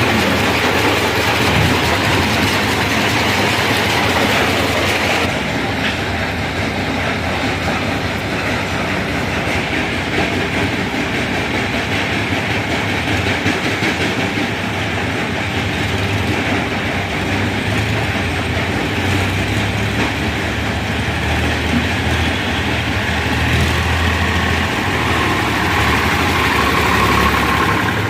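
Sonalika tractor's diesel engine running steadily and loudly, with a dense mechanical rattle; the sound turns duller about five seconds in.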